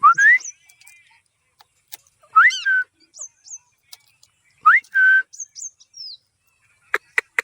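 Pet parrot giving whistled calls: three loud rising whistles about two seconds apart, with short high chirps between them. Near the end comes a quick run of sharp clicking notes, about five a second.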